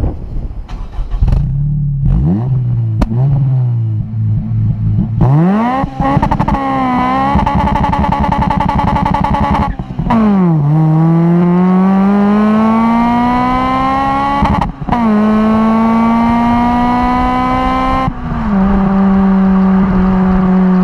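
Honda Civic Type R (EP3) 2.0-litre K20 four-cylinder under hard acceleration through the gears, its exhaust note climbing steadily in pitch. The pitch dips sharply at upshifts about ten and fifteen seconds in. Near the end the engine settles to a steady, slowly falling note as the throttle eases.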